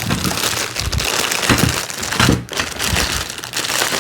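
Plastic packaging bags and foam wrapping crinkling and rustling as parts of a kids' ride-on motorcycle are unwrapped, with small knocks and clicks of parts being handled.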